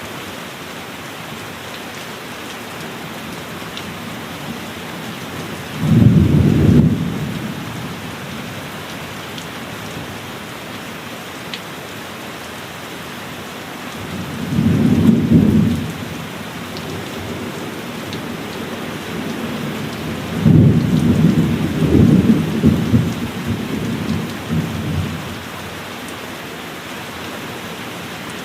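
Steady heavy rain with three rolls of thunder. The first thunderclap comes in suddenly about six seconds in, the second about halfway through, and the last, longest one rumbles on for several seconds before fading back to the rain.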